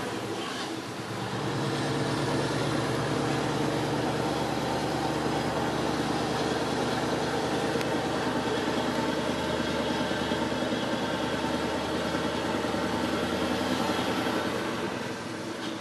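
Scania R500's V8 diesel engine running steadily under way, easing off briefly about a second in and again near the end.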